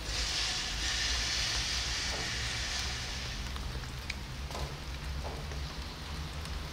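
Steady rain falling, with a few scattered drip-like clicks over a low steady rumble; a louder high hiss for about the first three seconds.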